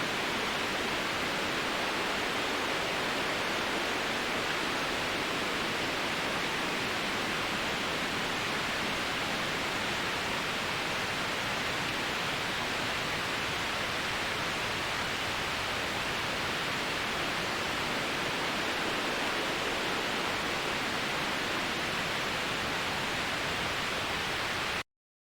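Steady, electronically generated white-noise hiss, strongest in the middle of the range with little bass or treble. It cuts off abruptly to silence near the end.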